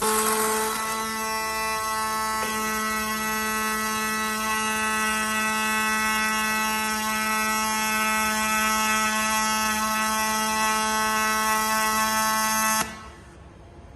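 Robotic welding arc buzzing steadily with a constant pitch, then cutting off abruptly about thirteen seconds in as the weld stops.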